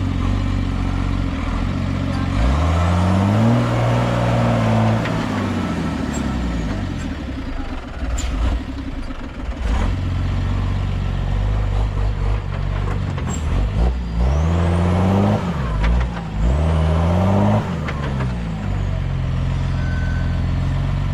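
A Unimog truck's diesel engine running, revving up and easing off twice under load, with a couple of sharp knocks in between.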